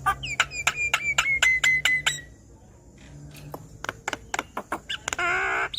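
Javan myna calling: a quick series of sharp clicks over a long whistle that slowly falls in pitch, more scattered clicks, then a short warbling call near the end.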